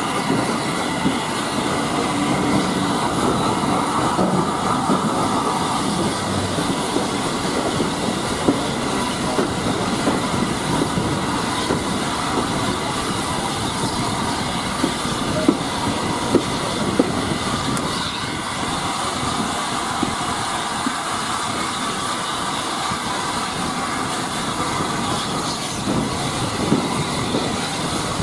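Railway carriage running along the track, heard from aboard: a steady running noise of wheels on rail, with occasional sharp clicks as the wheels cross rail joints.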